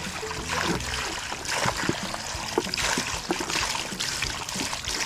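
Water trickling and splashing in a small toy pool, with faint background music underneath.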